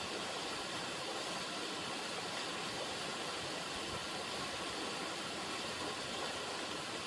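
River water running over rocks: a steady rushing flow.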